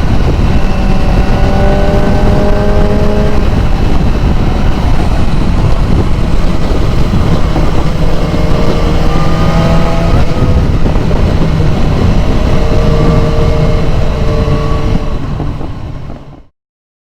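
BMW S1000R inline-four engine running on the road under heavy wind noise, its pitch rising slowly in stretches as it pulls. The sound fades out about fifteen seconds in.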